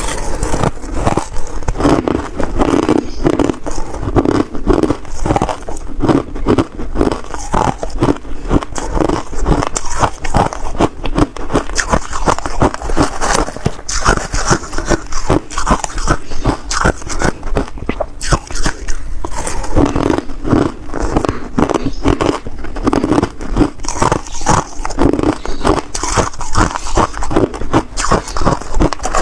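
Ice being bitten and chewed: a continuous, dense run of crunches and cracks as pieces break between the teeth.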